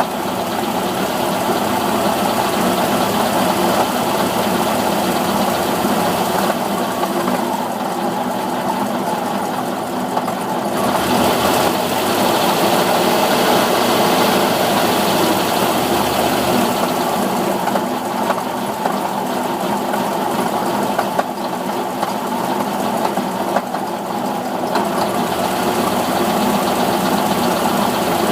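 Cold car engine running with a bad knock; it won't idle cold and has to be kept running on a little throttle. The sound grows louder twice along the way.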